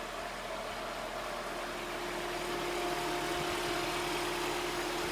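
1997 Nissan Hardbody pickup's four-cylinder engine idling steadily, a constant hum that grows a little louder about two and a half seconds in.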